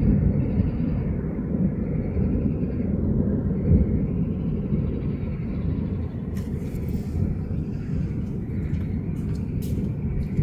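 Thunder rumbling low and long, slowly fading, with scattered sharp clicks in the second half.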